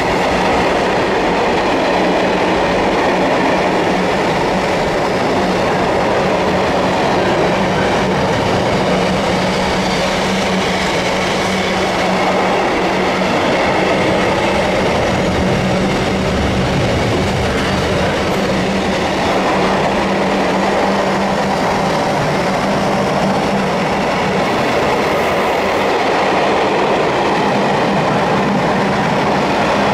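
Loaded container flat wagons of an intermodal freight train rolling past at speed: a loud, steady noise of steel wheels on rails. A low steady hum runs underneath and fades away over the last third.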